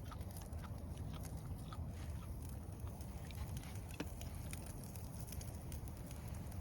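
Wood campfire crackling: scattered small pops and one sharper pop about four seconds in, over a low steady rumble.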